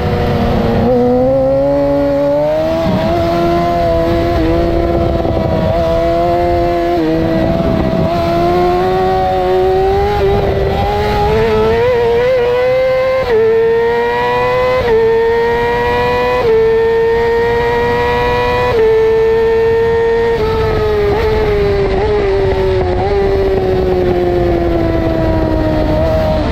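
2008 Yamaha R6's inline-four engine at high revs at racing speed, its pitch climbing and dropping quickly at each of several upshifts, then falling steadily as the bike slows, over a steady low rushing noise.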